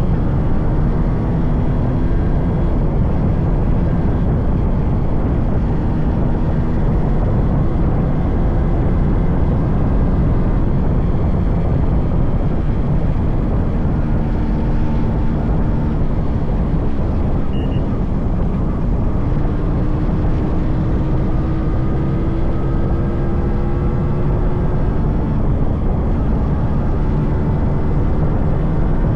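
Yamaha RX 100's 98.2cc air-cooled two-stroke single-cylinder engine running under way, over a steady heavy rumble. Its note drifts and rises gently in pitch as the bike gathers speed about two-thirds of the way through.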